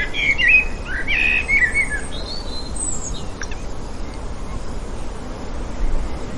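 Small birds chirping and calling, a quick cluster of short rising and falling chirps in the first two seconds and a few thinner, higher whistles about three seconds in, over steady outdoor background noise.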